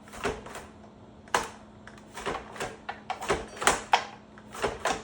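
Carrots being sliced on a mandoline slicer: a run of sharp, uneven strokes, about two a second.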